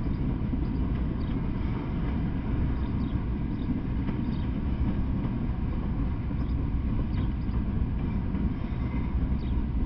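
Norfolk Southern freight train of open-top hopper cars rolling past, a steady low rumble of wheels on rail.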